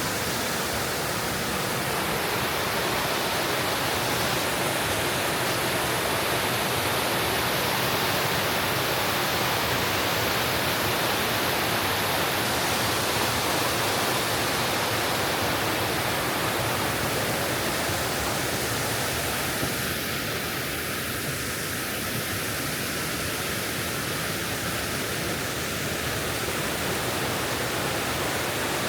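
Steady rush of a mountain waterfall and stream, a continuous even roar of falling water.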